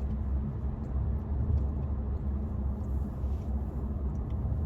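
Steady low rumble of road and engine noise inside the cabin of a Renault Samsung SM3 driving along.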